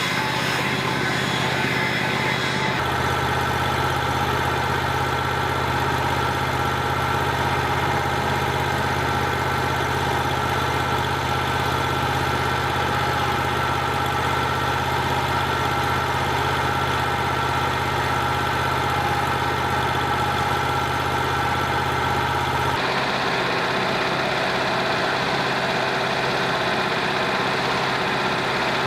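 Engine idling steadily. About three seconds in, its note grows heavier with a deeper hum and a higher whine. About twenty-three seconds in, those drop away again.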